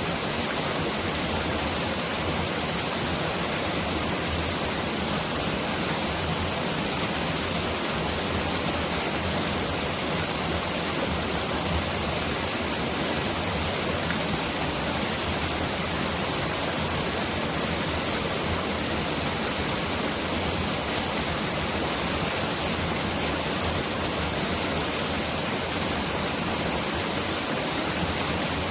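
Mountain valley stream rushing steadily over rocks, an even, full hiss with no breaks, which sounds like heavy rain.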